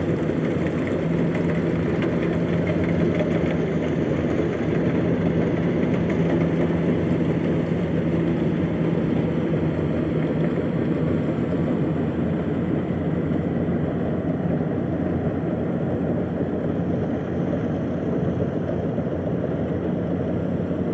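Engine of a rice harvesting machine running steadily at an even speed.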